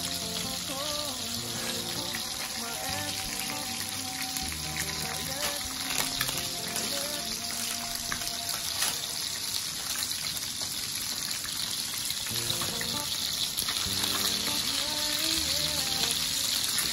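Food frying in hot oil: a steady sizzle with no breaks, under quiet background music.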